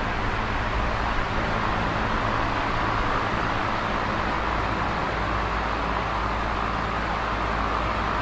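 Electric fan running steadily: an even rushing hiss of air from the blades with a low motor hum beneath.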